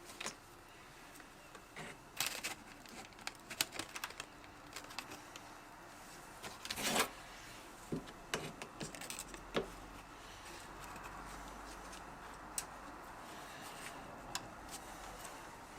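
Scattered small clicks and knocks of knife parts and tools being handled on a workbench, with a louder half-second sound about seven seconds in. A faint steady hum comes in after about ten seconds.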